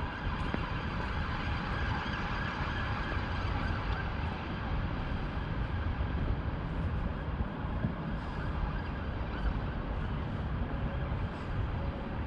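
Steady low rumble of city traffic, with a distant emergency-vehicle siren heard over it during the first few seconds before it fades.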